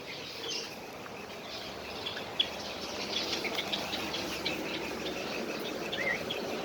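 Small cage birds chirping: many short high chirps, scattered and overlapping, over a faint steady background hum.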